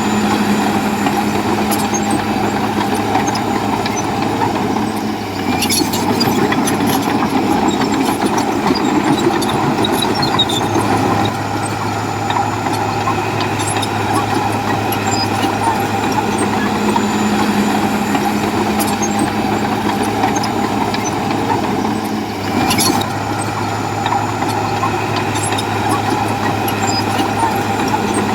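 Heavy diesel engine of earthmoving machinery, such as a bulldozer or dump truck, running steadily under work. Two brief sharp noises break in, about six seconds in and again near the end.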